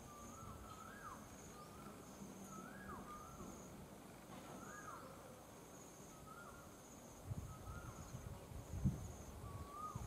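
A bird repeating a short whistled call that rises and then drops, about every second and a half, over a faint, high, pulsing tone. A low rumble comes in about seven seconds in.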